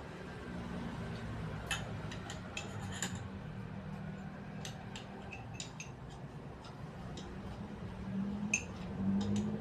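Small metal tools and parts clicking and clinking against each other in scattered, irregular taps, over a steady low hum.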